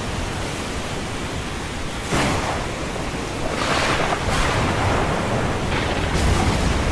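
Ocean surf under a storm: waves wash in as a steady rushing noise with a deep rumble beneath. A wave breaks suddenly about two seconds in, and another surge swells up around four seconds.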